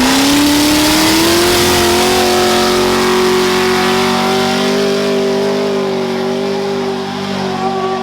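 A Mustang's engine is held at high, nearly steady revs. The note climbs slightly over the first couple of seconds, then stays flat and loud, with a strong hiss above it.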